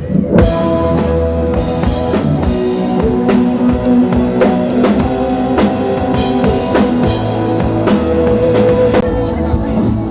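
Rock band playing live: drum kit keeping a steady beat under sustained guitar and bass, breaking off about a second before the end.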